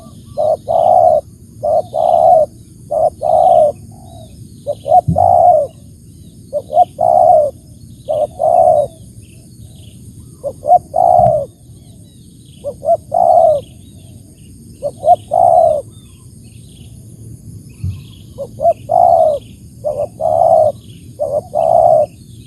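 Spotted dove (tekukur) cooing over and over in short phrases of a few low, rounded coos with brief pauses between phrases. Faint high chirps of small birds and a steady high insect-like hiss lie behind it.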